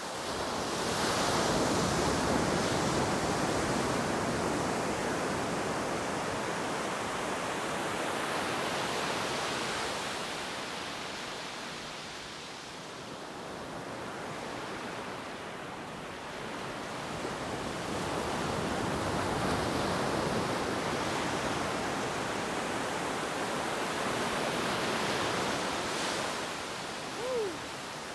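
Ocean surf washing onto a beach, a steady rush that swells and eases over several seconds at a time. Near the end, a brief falling squeak cuts through.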